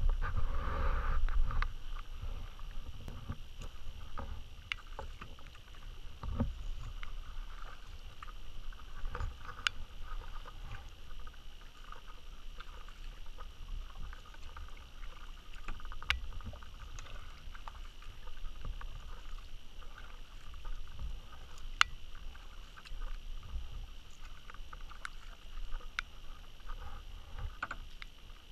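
Kayak paddle strokes dipping and splashing in the water in an uneven rhythm, with now and then a sharp click.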